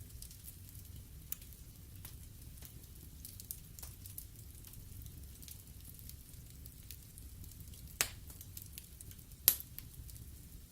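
Wood fire burning in a fireplace: a steady low rumble with scattered small crackles from the logs, and two loud pops near the end.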